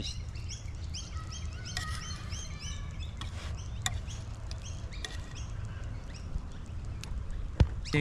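Birds chirping in quick series of short high notes, busiest in the first few seconds and thinning out later, over a steady low rumble. A sharp click near the end.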